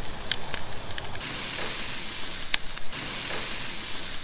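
Food sizzling in a frying pan on a camp stove, a steady hiss with scattered crackling pops.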